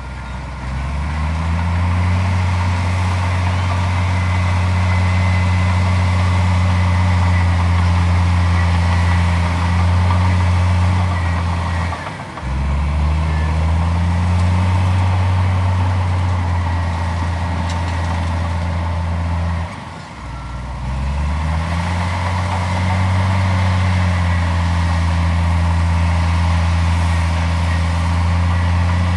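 Heavy diesel earthmoving engine running hard at steady revs. The revs drop twice and climb back up each time, as it works through cycles of load.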